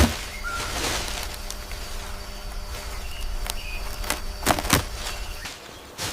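A few sharp knocks, one at the start and three in quick succession around four to five seconds in, over a steady outdoor background with short bird chirps and a faint insect hum.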